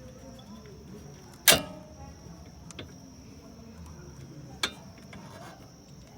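Metal brake parts and tools being handled: one loud, sharp metallic clank with a short ring about a second and a half in, then lighter clicks, the clearest near the end.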